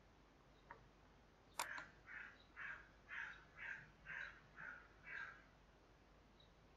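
A single sharp click, then a bird calling about seven times in quick succession, roughly two calls a second, over otherwise near-silent room tone.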